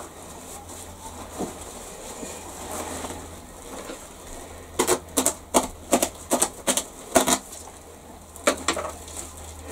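Dry fallen leaves and plastic bags crackling as leaves are gathered and stuffed into bags: a quick run of sharp crackles about halfway in, and a few more near the end.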